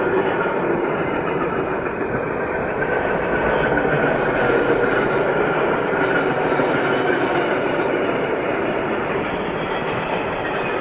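Long freight train of covered sliding-wall wagons rolling past at speed: a steady, continuous rumble of wheels on rail with no let-up, the last wagons going by near the end.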